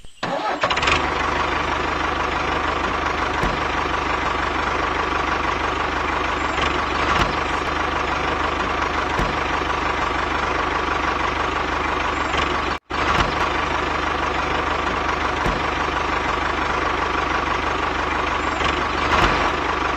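An engine-like machine running steadily with a constant hum and a steady whine, cutting out abruptly for a moment about thirteen seconds in.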